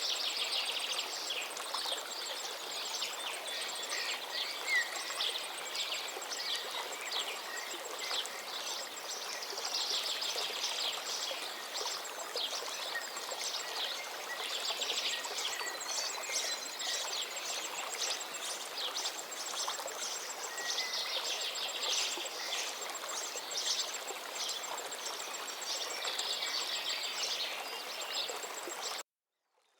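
Forest river flowing steadily, with songbirds singing busily over it throughout. The whole recording cuts out abruptly about a second before the end, then fades back in.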